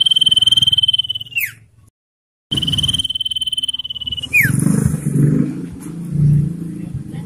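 Common iora giving two long, level whistles, each ending in a quick downward slur, with a brief silent break between them. A low, rough background noise runs underneath and is loudest after the second whistle.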